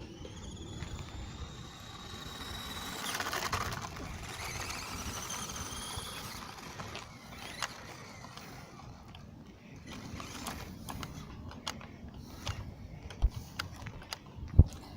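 Toy RC monster truck's small electric motor whining and rising in pitch as it speeds up, then a second wavering whine a few seconds in. After that come scattered clicks and knocks, with a sharp knock just before the end.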